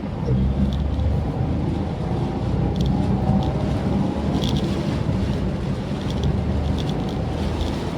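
Maruti Suzuki Swift Dzire driving at a steady pace: continuous low engine and road rumble, with a few short light ticks scattered through.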